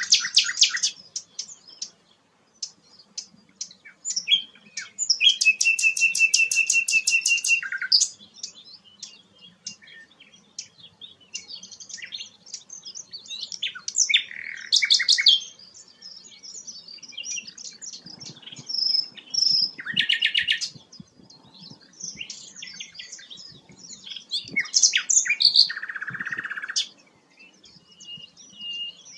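A songbird singing a long, varied song of quick chirps, rattling trills and clear whistled notes, phrase after phrase with short pauses between.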